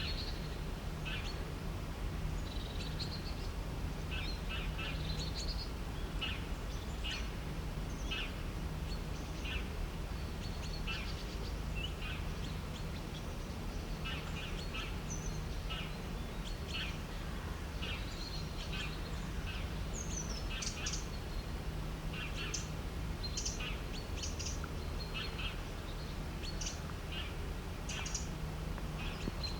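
Birds chirping: many short, high calls, several a second at times, over a steady low rumble.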